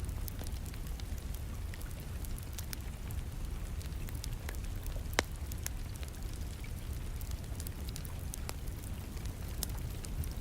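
Wood fire crackling in a fireplace, with scattered sharp pops and one louder pop about five seconds in, over a steady background of rain.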